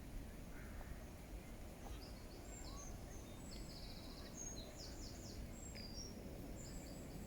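A small songbird giving faint high chirps and a quick trill, starting about two seconds in, over a low steady outdoor rumble.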